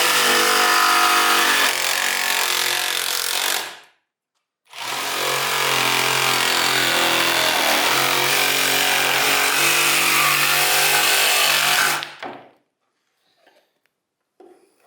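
Ryobi 18V ONE+ R18JS7-0 cordless pendulum jigsaw cutting wood in two runs, the first about four seconds long and the second about seven, with a short stop between them. The owner puts the noise it makes down to the workpiece not lying stable on the table.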